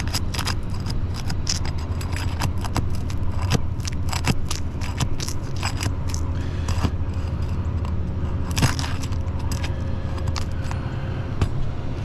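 Asphalt roof shingles being pried up by hand, crackling, scraping and tearing in many sharp clicks over a steady low rumble. The shingles are thin and tear rather than lift.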